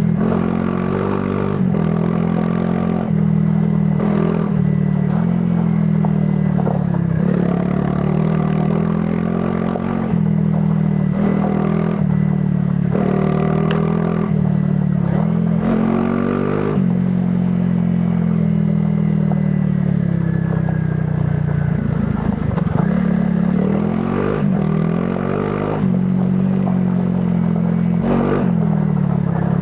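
Honda CRF300 Rally's single-cylinder four-stroke engine running through its stock exhaust on an off-road ride. The engine note rises and falls again and again with the throttle, and short knocks and clatter from the rough ground come through.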